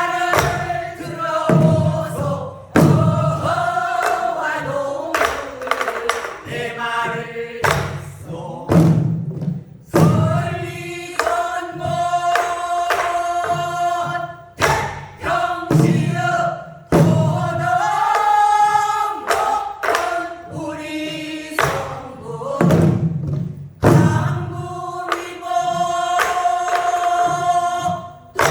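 A group singing a Korean folk song together while beating buk barrel drums. Drum strokes land every second or two between and under the sung phrases.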